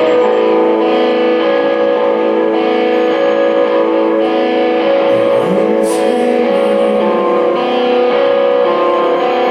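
Live band music with guitars ringing out sustained chords, without vocals, and a low note sliding upward about halfway through.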